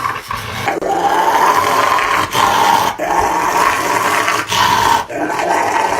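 Dog growling in several long, drawn-out stretches with short breaks between them.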